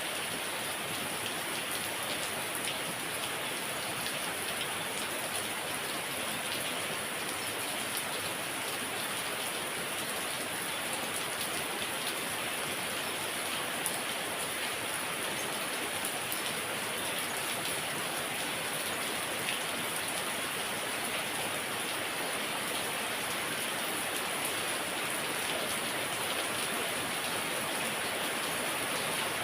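Heavy rain falling steadily, a dense even patter of drops striking surfaces.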